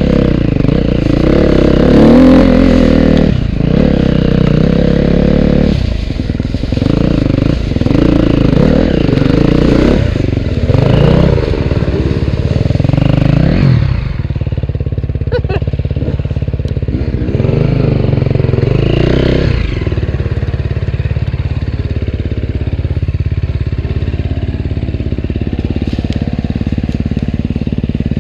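Off-road dirt bike engine revving up and down over and over for the first half, then settling to a lower, steadier run with one more short rev near the end.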